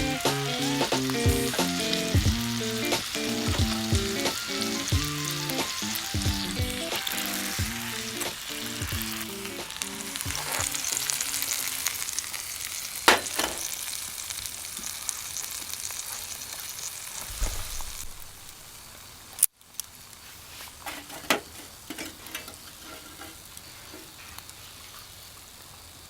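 Food sizzling as it fries, a steady high hiss, with background music fading out over the first ten seconds or so. A sharp clack comes about 13 seconds in. The sizzle stops abruptly about 19 seconds in, and after that the sound is quieter, with a few small knocks.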